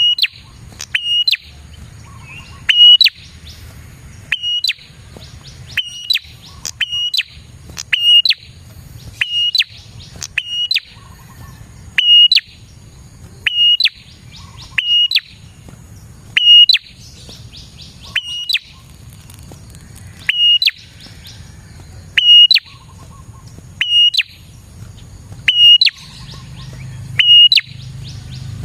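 A prenjak (prinia) calling: loud, sharp chirps repeated steadily about once a second, often in pairs, over a faint low hum.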